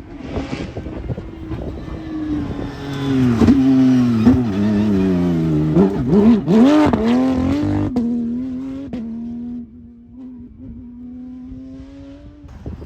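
Rally car passing at speed, its engine revving up and down through several quick gear changes, loudest in the middle, then a steadier, quieter engine note that dies away near the end.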